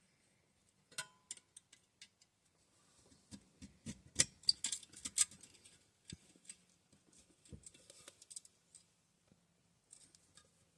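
Irregular small metallic clicks and taps of tools and engine parts being handled while working the governor arm out of a small engine's crankcase, with a quick cluster about four to five seconds in.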